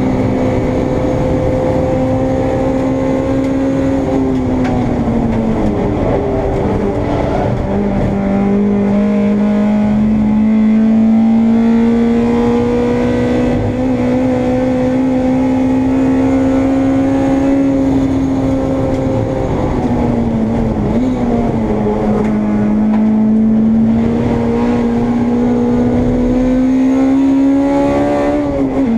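Racing Honda Integra's engine heard from on board at full race pace, the engine note climbing slowly for long stretches and dropping sharply three times: about five seconds in, about twenty seconds in, and near the end.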